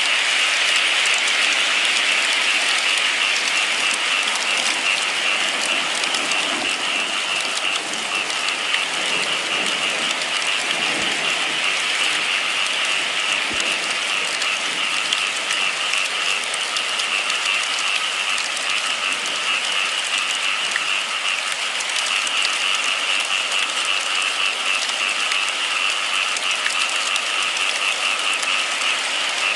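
Steady rain falling: an even, unbroken hiss with a few faint low knocks in the first half.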